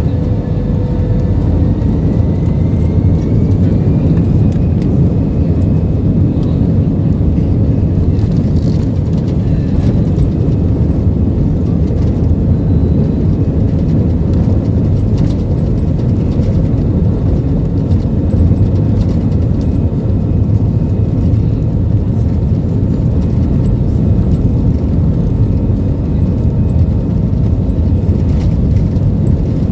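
Airbus A320-214's CFM56 jet engines running at high takeoff thrust, heard from inside the passenger cabin as a loud, steady rumble. A faint whine rises in pitch over the first few seconds.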